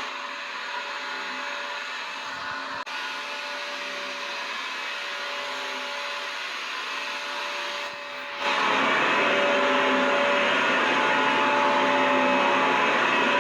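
Vacuum cleaner running steadily, a rushing noise with a whining motor tone. It is somewhat quieter and duller at first, then louder and brighter from about eight seconds in.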